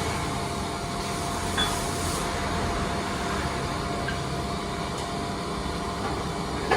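Steady mechanical hum of workshop machinery, with a few faint light clicks and taps.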